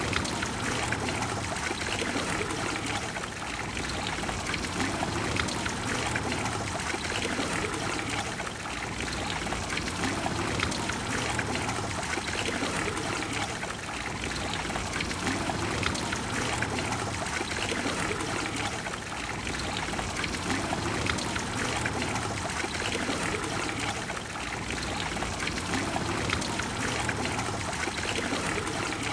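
Trevi Fountain's water splashing and flowing steadily into its basin, with gentle swells in loudness.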